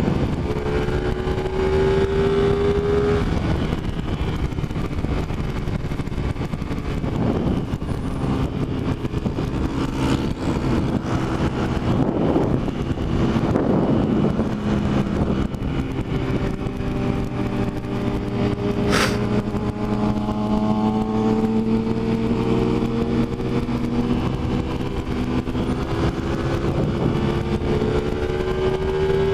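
Motorcycle engine running under way, its note rising and falling with the throttle, over steady wind rush. There is a sharp click about two-thirds of the way through.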